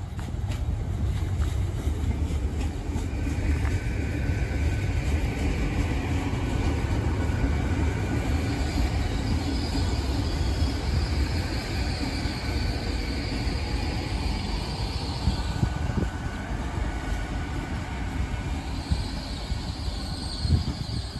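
LNER Class 800 Azuma train pulling slowly into the platform, a steady low rumble of wheels on rail with high, steady squeals from the brakes and wheels that come and go as it slows.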